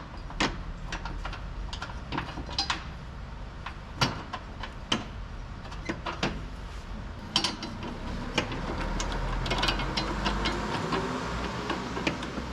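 Socket tools clicking and knocking at irregular intervals while working on the front suspension member bolts, over a low steady hum.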